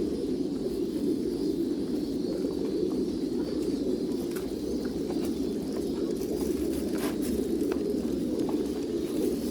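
Many domestic pigeons cooing together in a steady, continuous chorus, with a few light clicks scattered through it.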